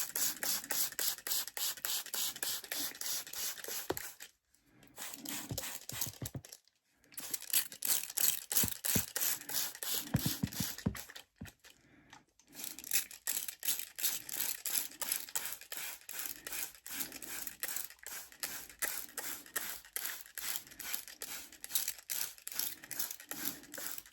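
Trigger spray bottle misting, rapid hissing squirts several times a second, with a few short pauses.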